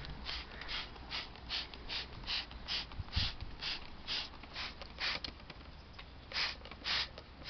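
Hand trigger spray bottle squirting degreaser in quick repeated strokes, a short hiss two or three times a second, pausing briefly before two last squirts near the end.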